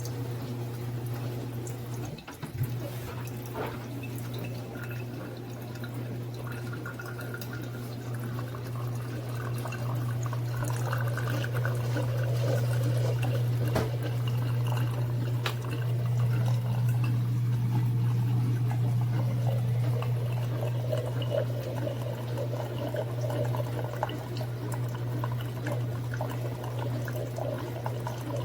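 Mecity single-serve coffee maker brewing: its pump hums steadily while hot coffee streams and splashes into the cup, the pouring growing louder about ten seconds in. A brief knock about two seconds in.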